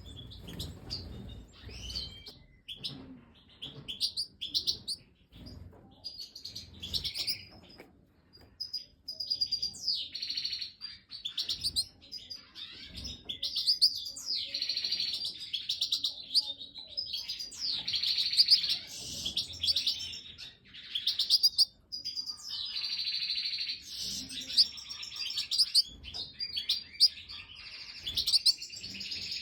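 European goldfinches (Major type) chirping and twittering: a run of quick, high calls that grows dense and near-continuous from about nine seconds in.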